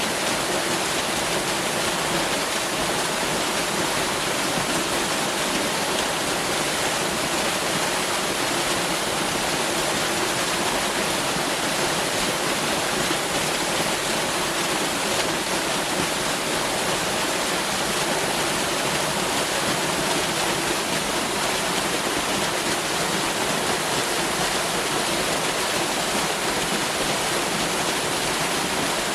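Waterfall pouring, a steady even rush of falling water with no change.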